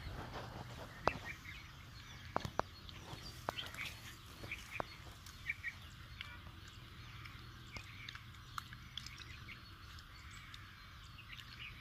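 Small birds chirping in short repeated calls, with a few sharp clicks and knocks in the first five seconds.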